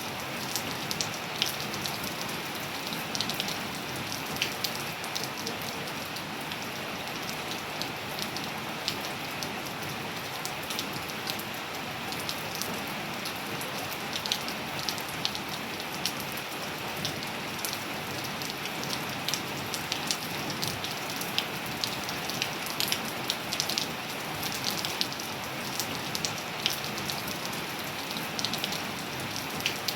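Steady rain falling: a continuous hiss with many individual drops ticking sharply and irregularly on a surface.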